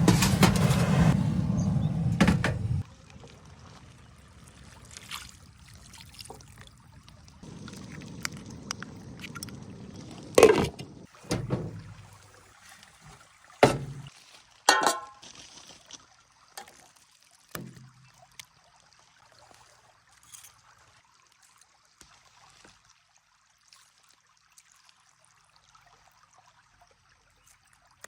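Liquid pouring for about three seconds, stopping abruptly, followed by quieter handling with several sharp knocks and clinks, one of them briefly ringing, before things go faint.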